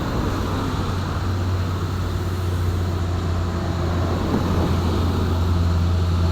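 Heavily loaded truck's diesel engine running steadily at low revs as the truck crawls slowly along the road, a continuous low drone.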